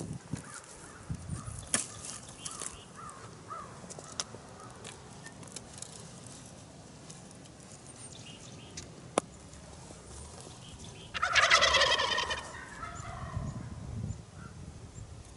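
Wild turkey gobbling once about eleven seconds in: a loud, rapid rattling call lasting a little over a second. Fainter short bird calls and a sharp click come before it.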